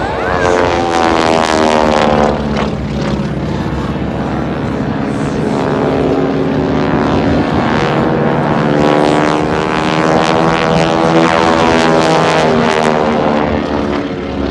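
Radial-engined propeller aircraft, the Aeroshell team's T-6 Texans, flying low passes. Two passes can be heard, the first about a second in and the second from about eight seconds; the engine drone sweeps in pitch as each plane goes by.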